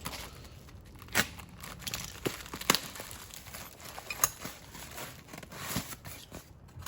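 Packaging around a new motorcycle exhaust being handled and pulled at: irregular crinkling and tearing with several sharp clicks.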